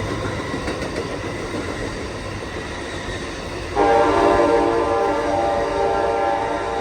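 Amtrak passenger train rolling past with a steady rumble of wheels on rail. Almost four seconds in, a locomotive's chime air horn sounds one long blast of about three seconds, the loudest sound here.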